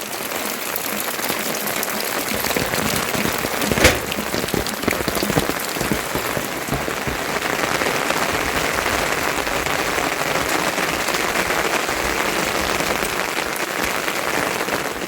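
Steady rain falling, an even hiss of drops, with a single sharp knock about four seconds in.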